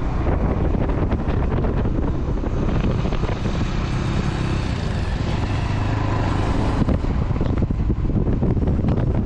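Wind buffeting the microphone of a motorcycle on the move, with the bike's engine running underneath.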